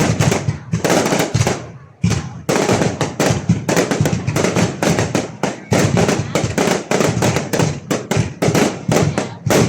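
Fireworks going off in rapid, overlapping bangs, several a second, with a brief lull about two seconds in.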